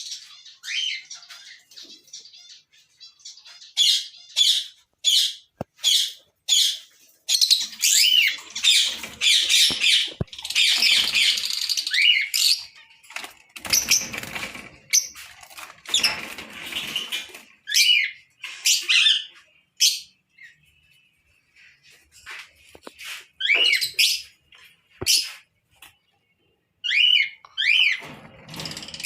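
Lovebirds (Agapornis) calling: clusters of sharp, shrill chirps and squawks with quick pitch sweeps, broken by short pauses, and a couple of longer, harsher bouts of chatter in the middle.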